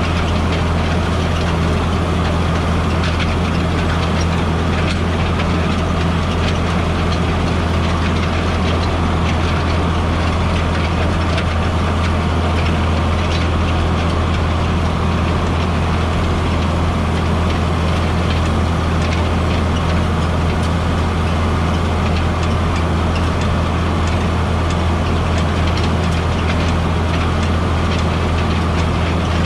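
A vehicle engine running steadily with a deep, even hum that never changes.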